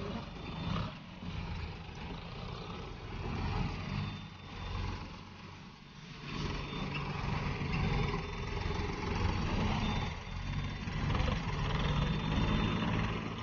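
Tractor engine running, its level rising and falling, louder from about halfway through.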